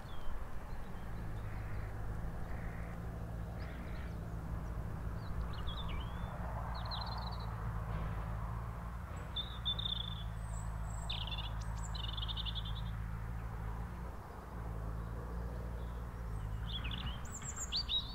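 Small birds chirping in scattered short high calls, a few around the middle and a cluster near the end, over a steady low hum.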